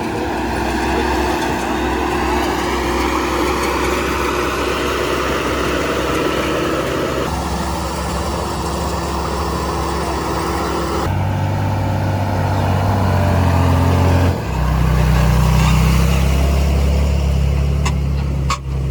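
Heavy construction machinery's diesel engine running steadily, its note changing abruptly a few times.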